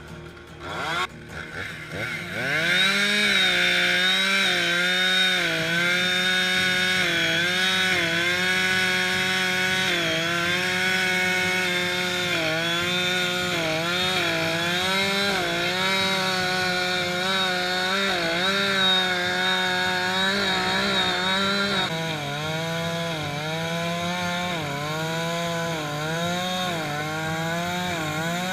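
Two-stroke chainsaw revving up, then running at full throttle and cutting wood. Its pitch dips briefly every second or two as the chain bites into the logs and the engine is loaded down.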